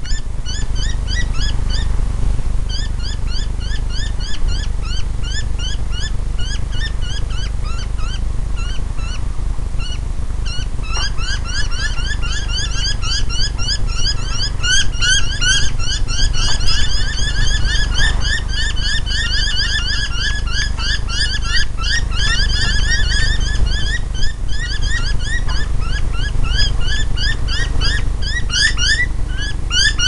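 Small birds calling nonstop: a rapid series of short rising chirps, several birds overlapping and getting denser about a third of the way in. A steady low rumble runs underneath.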